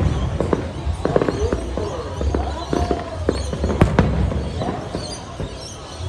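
Fireworks going off: a rapid series of sharp bangs and crackles over a low rumble, the loudest bangs about a second in and about four seconds in, easing off near the end.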